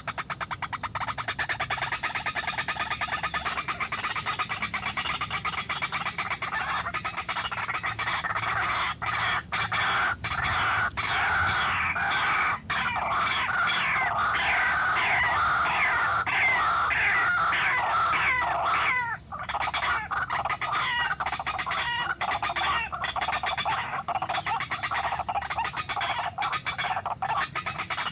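White-breasted waterhen calling: a long, continuous run of rapidly repeated croaking notes, with a short break about two-thirds of the way through.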